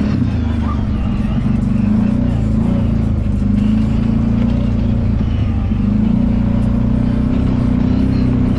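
Kawasaki Brute Force 750 ATV's V-twin engine running steadily on a trail ride, its note swelling and easing a few times as the throttle changes.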